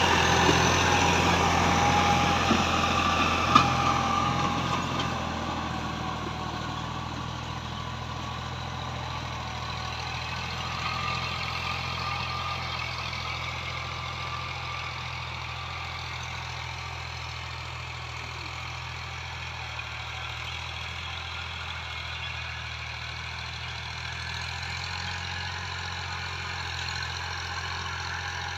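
Fiat 480 tractor's diesel engine running steadily, growing quieter over the first few seconds and then holding even. There is one sharp click about three and a half seconds in.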